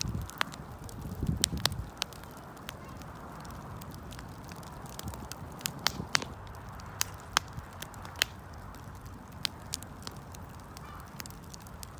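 Wood fire crackling, with irregular sharp pops and snaps over a soft steady background of flame noise. A brief low muffled rumble comes in the first two seconds.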